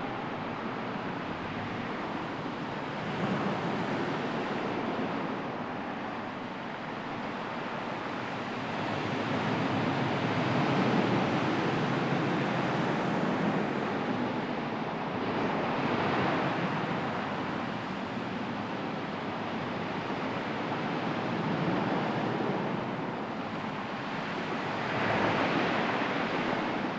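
Sea surf washing on the shore: a continuous rush of water that swells louder every few seconds as waves break.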